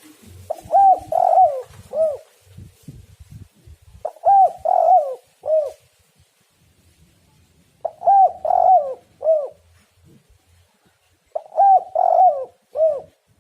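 Spotted dove cooing: four phrases about three and a half seconds apart, each a quick run of three or four arched coo notes.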